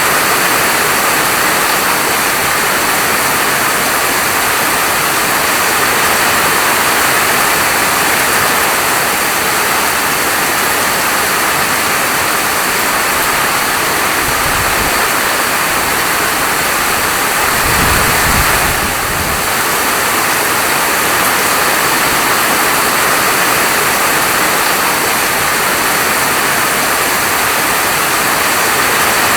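Steady heavy rainfall, a dense even hiss, with two brief low rumbles near the middle.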